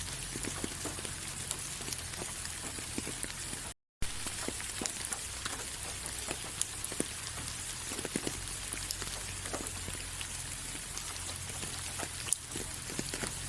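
Steady rain falling, with many individual drops heard as distinct ticks over an even hiss. The sound cuts out to silence for a split second about four seconds in, then resumes.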